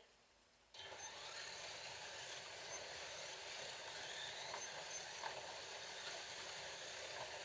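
Several Scalextric slot cars start up about a second in, and their small electric motors and pickup braids run steadily around the track as the race heat gets under way.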